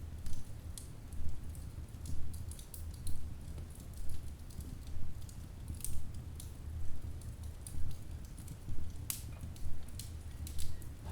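Wood fire in a fireplace crackling, with scattered sharp snaps and pops from the burning logs over a low rumble of the flames.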